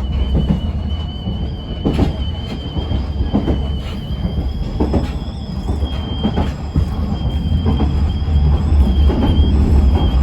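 Electric local train running along the line, heard from inside the front car: a steady low rumble, wheels knocking over rail joints at irregular intervals, and a steady high-pitched squeal.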